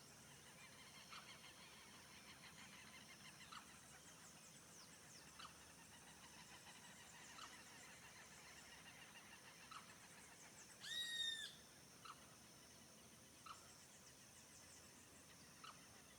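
Faint chorus of wild birds calling and trilling, with one short call repeated about every two seconds. About eleven seconds in, a single louder call lasting half a second stands out.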